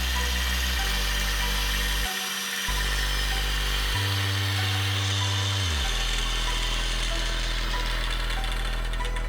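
Electric hand grinder running steadily, used to strip kernels off corn cobs, under background music with a stepping bass line. The grinder's noise fades out near the end.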